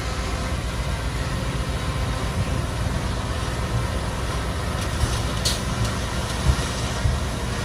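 Heavy diesel earthmoving machinery running steadily with a deep engine rumble. A brief high hiss comes a little past the middle, and a few low knocks near the end.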